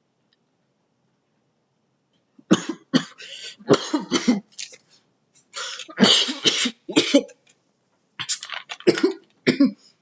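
A person coughing hard in repeated fits after inhaling smoke, starting about two and a half seconds in and going on in several clusters of harsh coughs until near the end.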